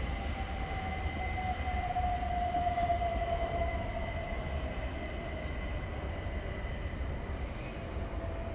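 Electric multiple-unit train's traction motors whining, the whine slowly falling in pitch over a steady low rumble, as the train slows.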